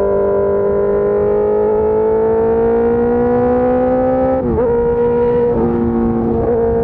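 Suzuki GSX-R 600 K4 inline-four sport bike engine through an SC Project S1 race exhaust, pulling with its pitch rising steadily, then dropping sharply about four and a half seconds in at an upshift and running on at a steady, slightly lower pitch.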